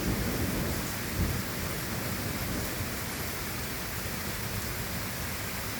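Steady rain falling, with a low rumble of thunder that swells about a second in and then dies away.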